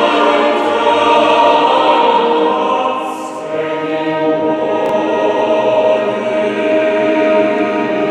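Church choir singing a sacred anthem in held, sustained chords, with a brief lull about three seconds in before the voices carry on.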